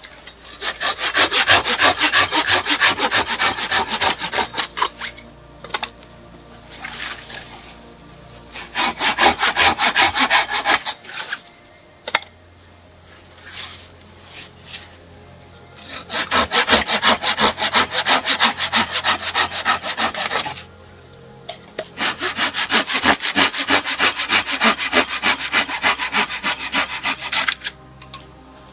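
Hand saw cutting wood in four spells of quick back-and-forth strokes, about three a second, with short pauses between spells.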